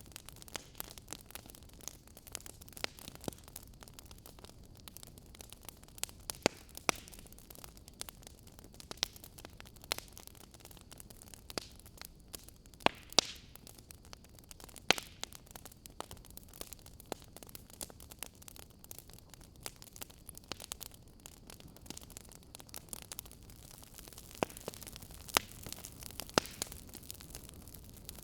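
Fire crackling: irregular sharp pops and snaps, a few much louder than the rest, over a soft steady hiss.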